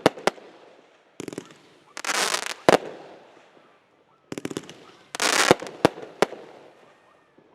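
Consumer fireworks going off in a repeating cycle about every three seconds: a cluster of quick pops, a hiss lasting about half a second, then one or more sharp bangs.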